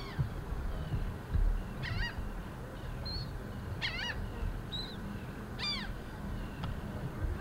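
Birds calling: a few short, high calls, each sliding quickly down in pitch, spaced a second or two apart. Low rumbling noise runs underneath and is loudest about a second and a half in.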